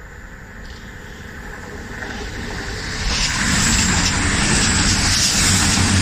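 Passenger train approaching and passing close by at speed: a rising rush of wheels on rail and air that becomes loud about three seconds in and stays loud as the carriages go by, with a low hum underneath.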